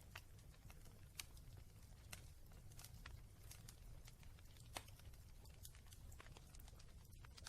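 Quiet wood fire in a fireplace crackling, with irregular sharp snaps every half second or so over a steady low rumble.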